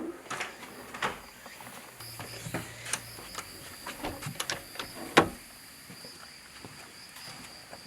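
Irregular clicks and knocks of objects being handled, the loudest a sharp knock about five seconds in.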